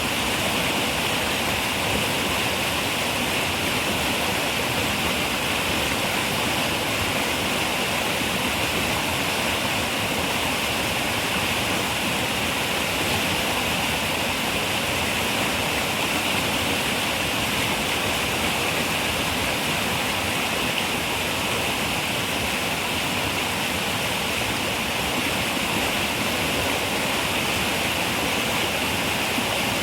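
River water running, a steady rushing with no breaks or changes.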